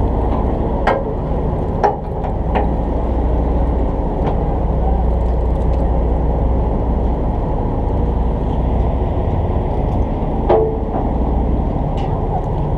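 Party boat's engine running steadily with a constant low hum, broken by a few short knocks.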